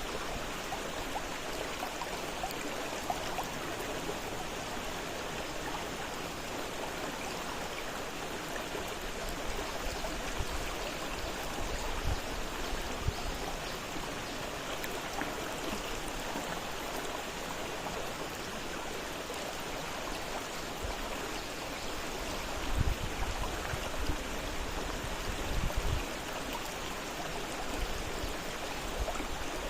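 Fast-flowing river rushing steadily, an even wash of water noise, with a few brief low rumbles near the middle and toward the end.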